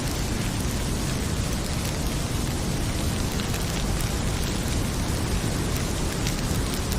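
Heavy rain pouring steadily, mixed with scattered small pops and crackles from a fireplace fire.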